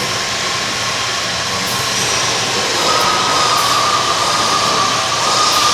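A steady mechanical whine over a rushing noise, the whine stepping up slightly in pitch about three seconds in.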